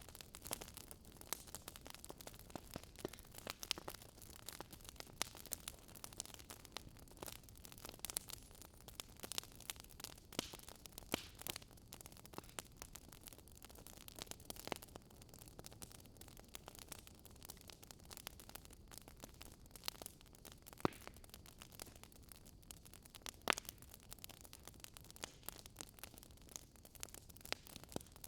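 Wood fire crackling in a fireplace: irregular sharp pops and snaps, several a second, over a soft steady hiss, with a few louder pops near the middle and later on.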